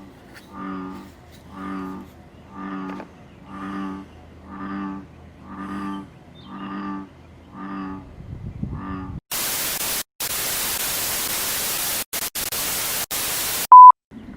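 American bullfrog calling: a series of about nine deep, resonant notes, roughly one a second. It is followed by a burst of loud static with brief dropouts and a short, very loud beep tone, an added editing effect.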